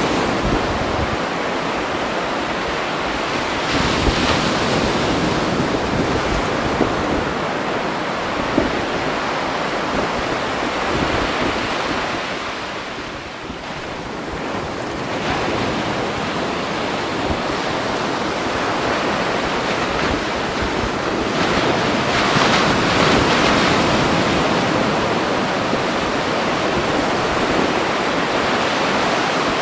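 Waves washing on a shore: a steady rush of water that swells about four seconds in, eases off midway and swells again after about twenty seconds.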